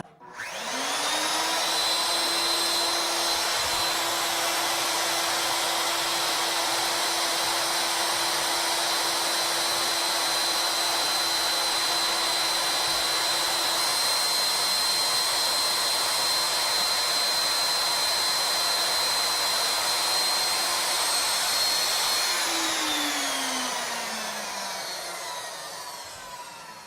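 CNC router's spindle motor starting up and quickly reaching a steady, high-pitched whine. It holds that speed for about twenty seconds as the program runs, then winds down with a falling pitch near the end.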